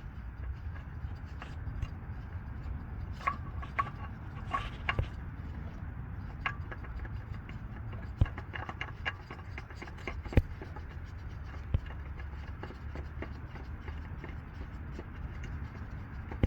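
Scattered small clicks and knocks from hands handling a car's oil filter and parts, over a steady low rumble.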